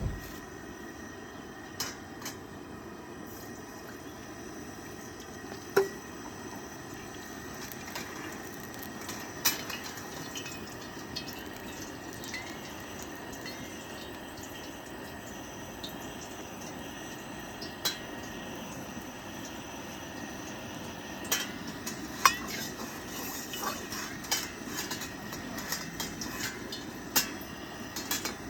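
Metal cookware clinking and knocking now and then, over a steady rushing noise.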